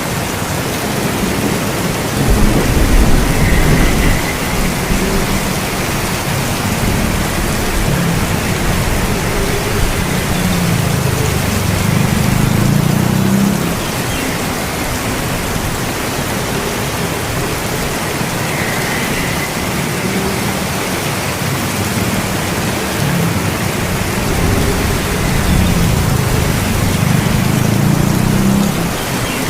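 Steady heavy rain, a dense even hiss, with low rolling thunder swelling up three times: shortly after the start, around the middle, and near the end.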